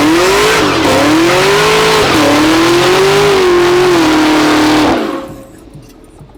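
A car revving hard with tyres squealing: a loud wavering pitch that rises and falls over heavy hiss, dying away about five seconds in.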